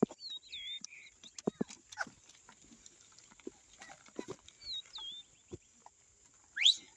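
Field sounds of animal-drawn ploughing: scattered knocks and thuds, short high chirps twice, and a quick sharp rising whistle near the end.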